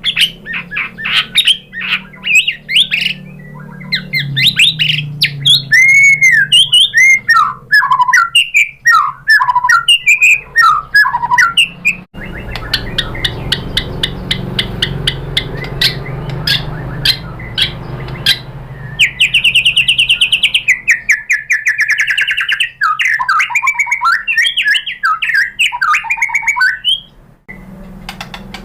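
White-rumped shama singing a long, varied song of loud whistles, quick chirps and trills, running through its repertoire, with a buzzy rapid rattle about two-thirds of the way in. The song breaks off abruptly twice, like edits between recordings.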